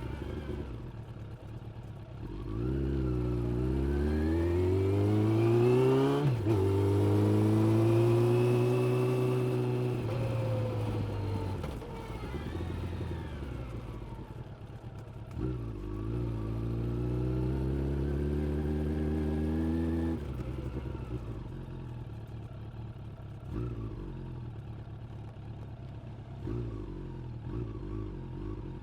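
Suzuki GSX600F inline-four motorcycle engine pulling away under acceleration, its revs rising through a quick upshift, then easing off. A second pull follows and ends with the throttle closing, and the engine runs at low revs with small blips of throttle.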